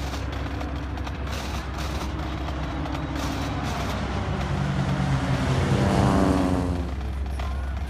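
A motor vehicle's engine passing close by: it grows louder over a steady low rumble, is loudest about six seconds in, then falls in pitch as it moves away.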